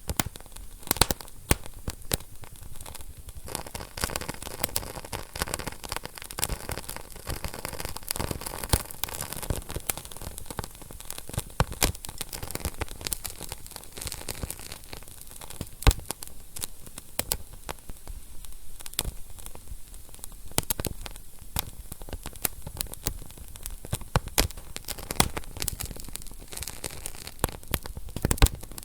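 Wood fire in a fireplace crackling, with a steady hiss of burning and many sharp, irregular pops and snaps, one especially loud pop about halfway through.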